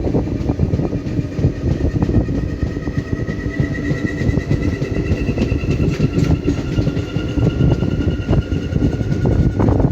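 Steady low rumble of a moving vehicle, with faint high whining tones held for several seconds through the middle.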